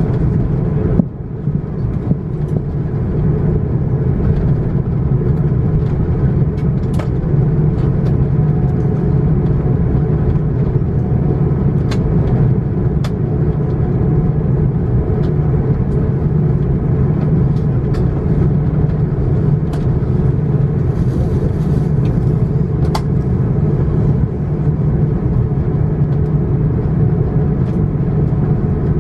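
Steady low cabin rumble of an Airbus A330-941 on the ground, its Rolls-Royce Trent 7000 engines running while the aircraft taxis. A few small clicks and rattles sound from the cabin.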